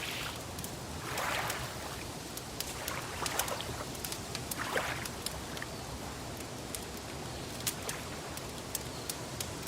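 Wood fire crackling with frequent sharp pops, over a soft background of water lapping that swells gently every second or two.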